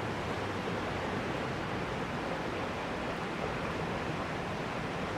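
A steady, even rushing noise with no distinct knocks or clicks.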